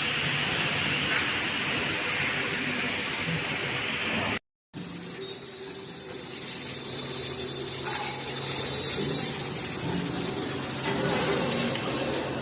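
Grooving machine running with a steady hiss and a low hum underneath. The sound cuts out for a moment about four and a half seconds in.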